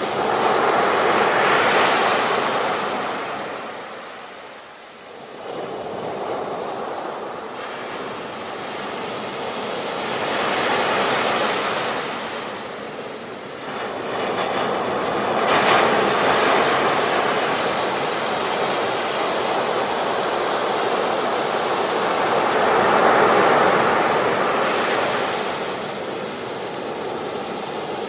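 Ocean surf breaking on a beach: four slow surges of wash that swell and fall away, with a brief lull after the first.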